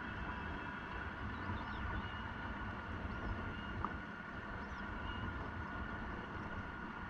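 Electric bike on the move: wind rumble on the microphone under a steady high hum, with a few faint high chirps.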